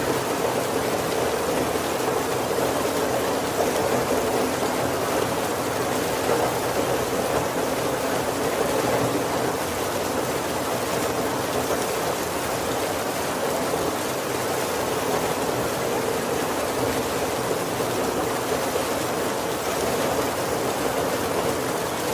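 Steady heavy rain falling on a roof, an even hiss with a fuller low patter and no thunder.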